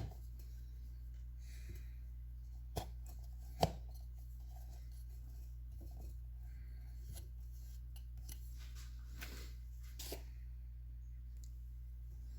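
Small parts being handled on a workbench: a few sharp clicks and knocks, the loudest at the very start and two more about three and three and a half seconds in, with light rubbing and a steady low hum underneath.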